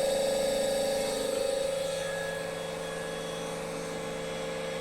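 Electric motor running steadily on a Schneider Altivar ATV312 variable-frequency drive set to 50 Hz, giving an even hum and whine that eases slightly about a second and a half in. It runs very smoothly, the sign that the repaired drive is working.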